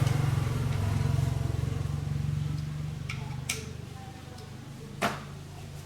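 Small petrol lawn mower engine running steadily and gradually fading away. Two sharp clicks come near the end, the second the louder.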